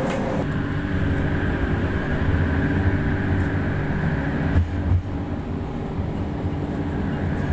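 Light-rail train running, a steady rumble with a steady motor hum. There is a brief knock about four and a half seconds in, after which a higher hum drops away.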